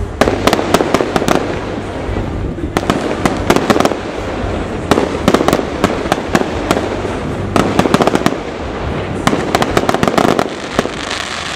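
Fireworks going off in a rapid crackle of sharp cracks and bangs, coming in clusters about every two seconds, five times over.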